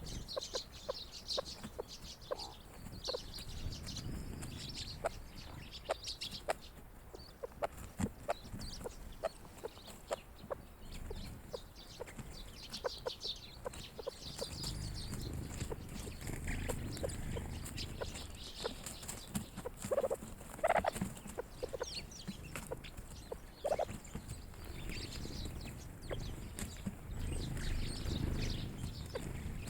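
A flock of grey partridges giving soft clucking calls, with a few louder calls about two-thirds of the way through and again at the end. High chirping, many small clicks and a low rumble run underneath.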